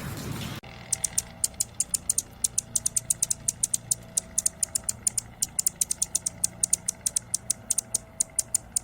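Rain hiss for the first half-second, then a sudden cut to a rapid, irregular series of very high, short chip notes, about seven a second, from a small bird.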